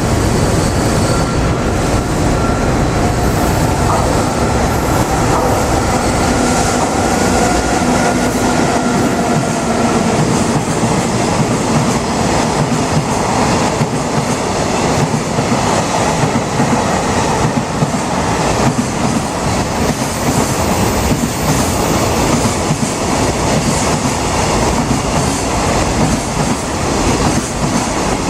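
Freight train hauled by an EF64 electric locomotive running through a station, its wagons rolling past with a continuous rumble and clickety-clack of wheels over rail joints. A thin wheel squeal can be heard during the first ten seconds or so.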